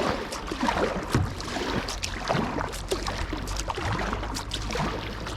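Kayak paddle strokes and river water splashing around the hull, in uneven bursts over a steady low rumble.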